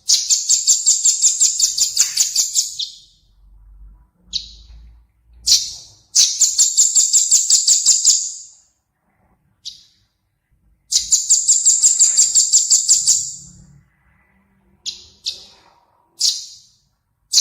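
A songbird recording: a high, rapid trill of about five notes a second, given three times in bursts of two to three seconds, with short single high calls in the gaps.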